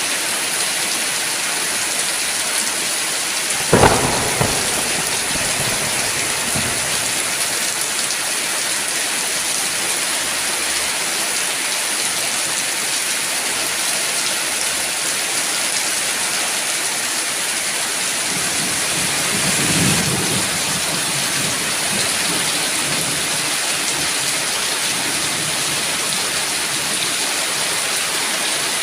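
Steady heavy rain falling, with a sharp clap of thunder about four seconds in and a softer, lower roll of thunder about two-thirds of the way through.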